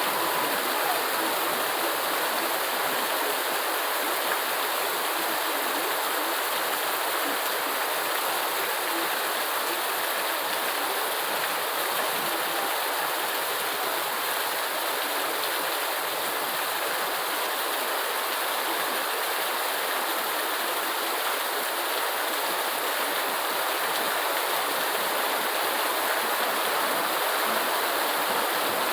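Steady rainfall: an even, unbroken hiss of water with no individual drops or events standing out.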